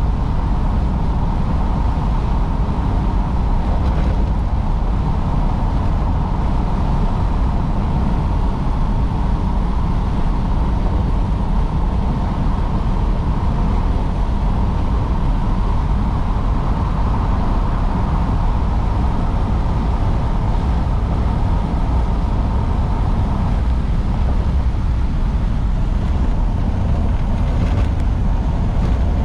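1953 Oldsmobile Super 88 underway: steady engine and road rumble that holds even throughout, with a faint steady whine above it.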